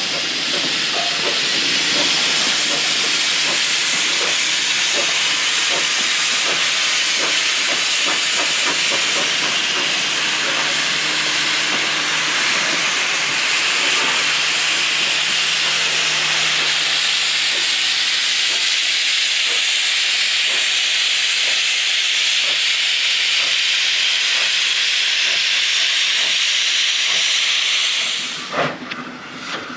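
Steam locomotive venting steam: a loud, steady hiss that cuts off abruptly near the end, followed by a few sharp knocks.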